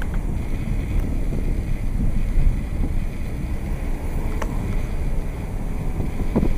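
Wind buffeting the microphone in a strong breeze: a steady, low rumbling rush.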